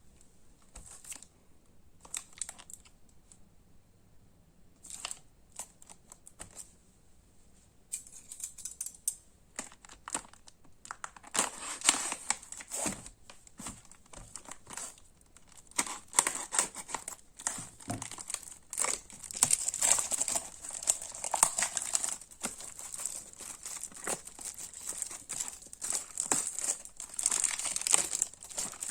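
Plastic packaging of Pokémon trading cards being handled and unwrapped, crinkling and tearing. There are sparse crackles at first, then steady, busy crinkling from about eight seconds in.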